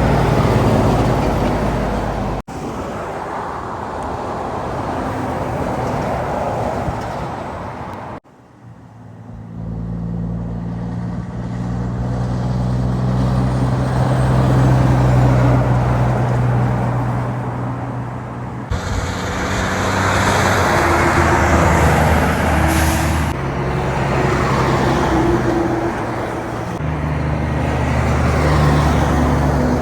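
Heavy trucks passing on a highway, diesel engines running with tyre and road noise. The sound breaks off and changes abruptly three times as one vehicle gives way to another. A short, sharp hiss comes about two-thirds of the way through.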